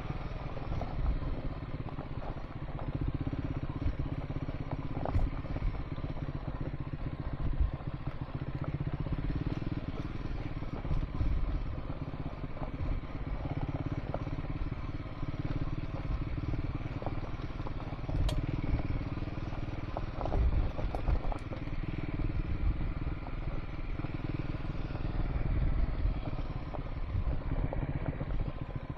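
Triumph Scrambler 400 X single-cylinder engine running steadily while riding a dirt and gravel track, with scattered knocks and clatter from the rough surface.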